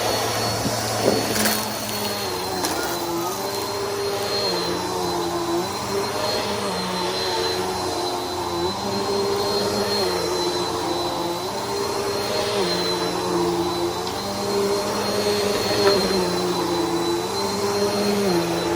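Bissell PowerForce Helix upright vacuum cleaner running, with a steady high whine and a lower hum that steps up and down in pitch every second or two.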